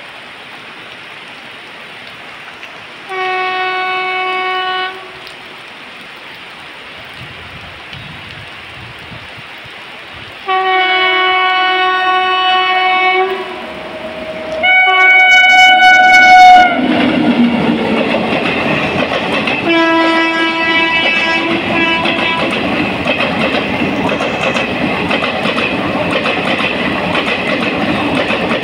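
Electric locomotive horn sounding four long blasts as an Indian Railways express approaches, the third loudest and the last fainter. Then the train runs through at speed, its ICF coaches passing with a steady rumble and clickety-clack. Heavy rain hisses underneath before the train arrives.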